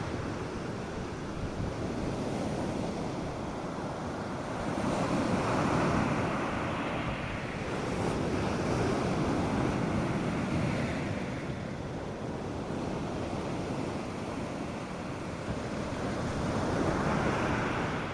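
North Sea surf breaking on a beach: a continuous wash of waves that swells three times as sets come in and break.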